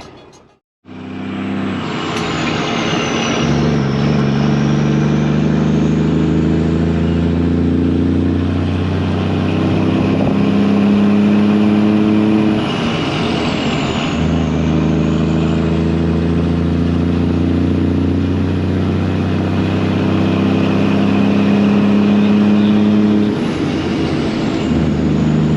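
Volvo/White semi truck's diesel engine pulling on the road, its note dipping and changing at gear shifts a few seconds in, about halfway through and near the end.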